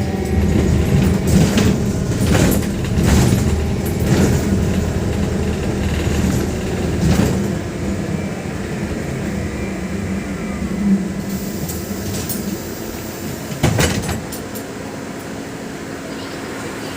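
VMZ-5298.01 Avangard trolleybus running, heard from inside: a steady rumble with rattles and several sharp knocks, the loudest near the end. It then settles to a quieter, even hum.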